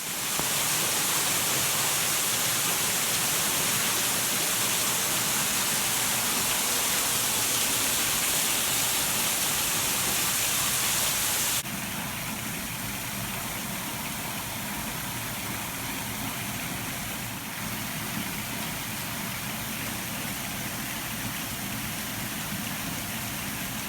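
Steady rush of falling water from a waterfall, an even hiss spread across all pitches. About halfway through it drops abruptly to a somewhat quieter level.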